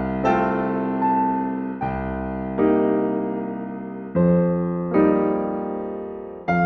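Slow, gentle solo piano music: chords struck about once a second, each ringing and fading before the next.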